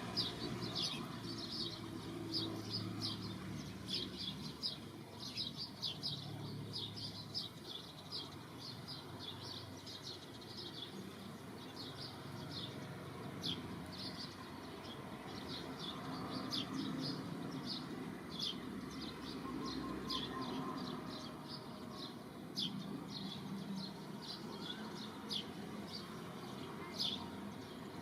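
Small birds chirping continuously, many short high chirps each second, over a faint low background hum.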